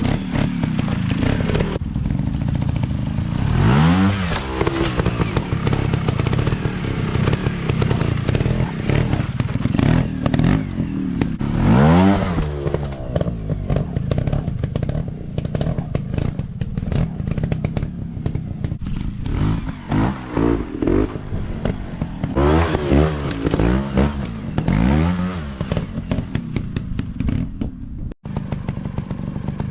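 Small dirt bike engines revving up and down again and again as they are ridden. Each blip of throttle rises and then falls in pitch, over a steady engine note.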